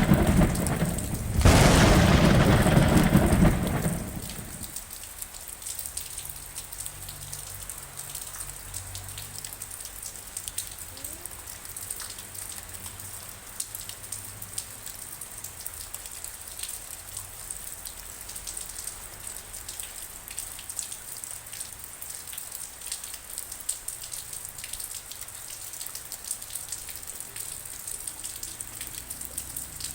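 A loud roll of thunder that fades out about four seconds in, then steady rain with many small drop ticks.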